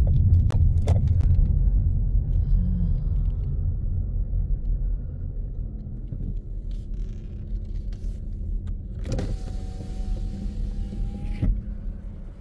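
A car driving, with a steady low engine and road rumble that slowly fades. About nine seconds in, a hiss lasting about two seconds joins it.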